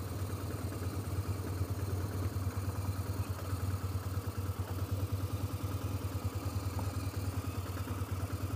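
Adventure-touring motorcycle engine running at a steady idle while the bike stands still, with a low, even pulse.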